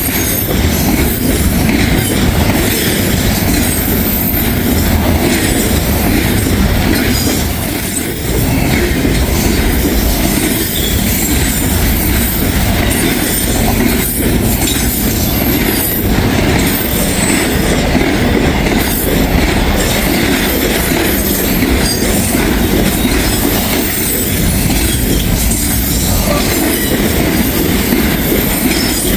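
Cars of a long Norfolk Southern freight train passing close at speed: steady wheel-on-rail noise with repeated clicking over the rail joints and a thin, high wheel squeal.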